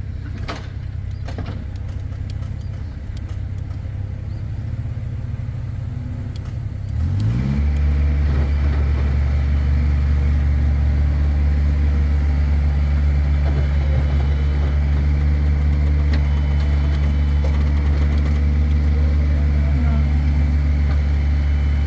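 Vehicle engine running at low speed, then revved up about seven seconds in and held at a steady higher speed under load during an attempt to pull a stuck skid steer free.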